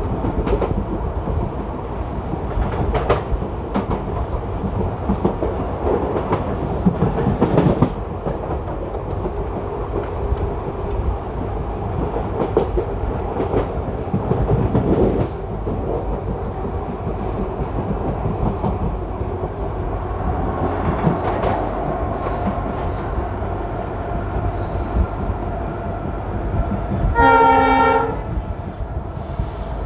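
A passenger train runs along the track: a steady rumble of the coach, with the wheels clicking irregularly over rail joints and points. Near the end a train horn sounds once, for about a second.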